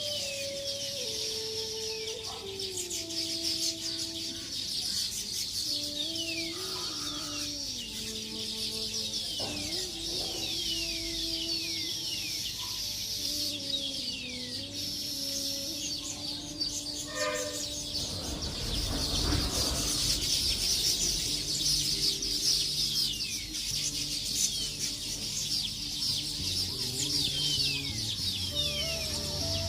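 Many birds chirping, with short falling calls repeated again and again over a steady high chatter, while soft music with slow held notes plays underneath.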